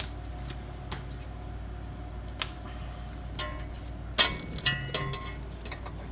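Metal hand tools clinking against steel suspension hardware: a few light clicks, then several sharp clanks with a short metallic ring about four to five seconds in. A steady shop-fan hum runs underneath.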